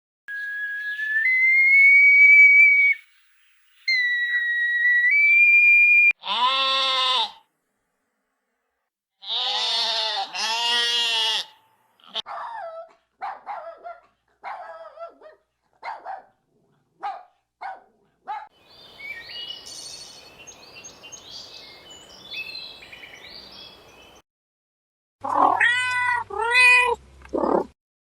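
A series of different animal calls with gaps between them. It opens with a high whistle-like tone that steps up in pitch, heard twice, followed by several arched, meow-like calls. Next come a run of short chirps and a few seconds of hiss with squeaks over it, and three more arched calls near the end.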